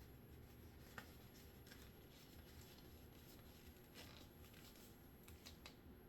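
Near silence, with faint rustling and a few soft clicks from sterile gloves and their paper wrapper being handled.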